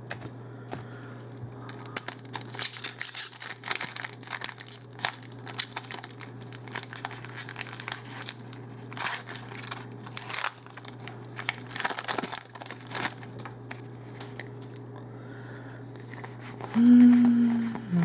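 A foil booster-pack wrapper being torn open and crinkled, in a run of irregular crackles, with a steady low hum underneath. Near the end comes a brief pitched sound.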